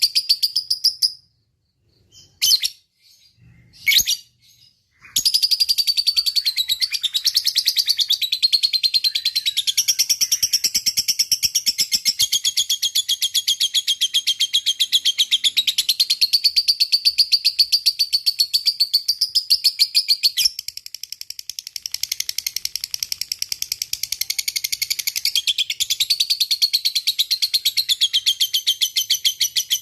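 Lovebird singing its long 'ngekek': a high, very rapid chattering trill. A few short calls come in the first seconds, then one unbroken trill from about five seconds in that keeps going to the end, softening briefly about two-thirds of the way through.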